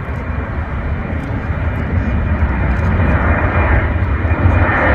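Boeing 737 jet engines running, a deep rumble and roar that grows steadily louder.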